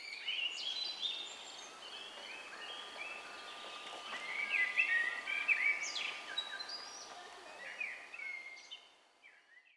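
Several songbirds singing at once, many short overlapping chirps and whistles over a light background hiss, fading out near the end.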